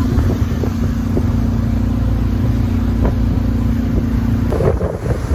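Motorboat engine running steadily with a low, even hum. About four and a half seconds in the hum drops out and a rougher, irregular noise takes over.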